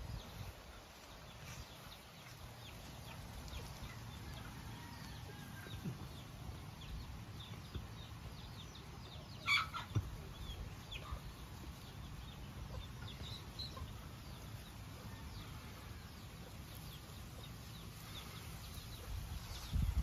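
Birds calling: scattered short chirps, with one louder short call about nine and a half seconds in.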